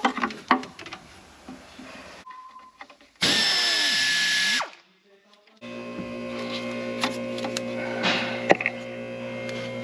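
Clicks of hand tools on metal, then a power tool runs steadily for about a second and a half and spins down. A little later a steady electrical hum sets in.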